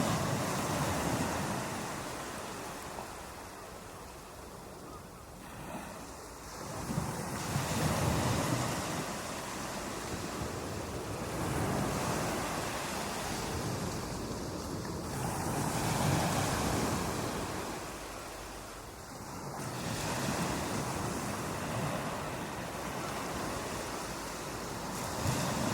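Ocean waves breaking on a beach: surges of rushing surf that swell and fade about every four to five seconds.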